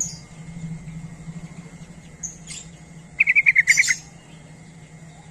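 Yellow-vented bulbul (trucukan) calling: a few short high chirps, then, past the middle, a loud quick bubbling run of about eight notes lasting under a second, with thin high chirps over it. A faint low hum lies underneath.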